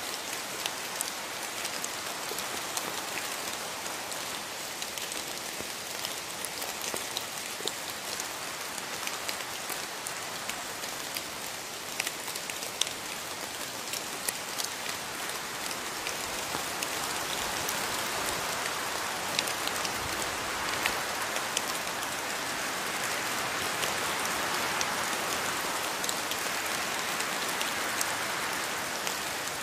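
Steady rain falling on rainforest foliage, an even hiss with individual drops ticking through it, growing a little heavier in the second half.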